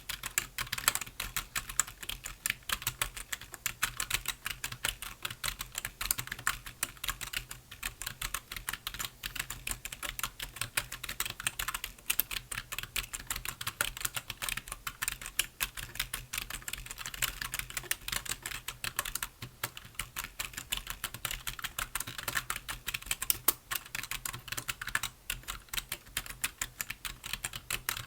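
Computer keyboard being typed on continuously: rapid, irregular key clicks at an even pace.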